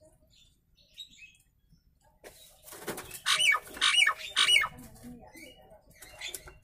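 Nias hill myna calling: after faint chirps, a harsh call about two seconds in, then three loud whistled notes about half a second apart, each dropping in pitch, followed by softer chatter.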